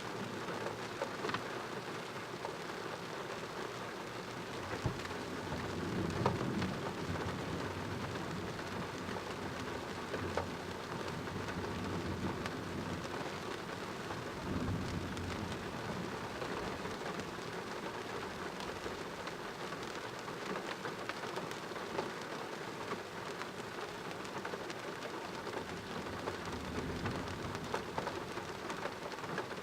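Heavy rain falling steadily during a thunderstorm, with thunder rumbling three times: about five seconds in, again about halfway through, and near the end.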